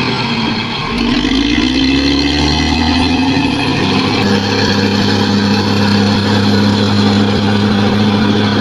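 Bulldozer's diesel engine running; its pitch rises about a second in, then holds steady.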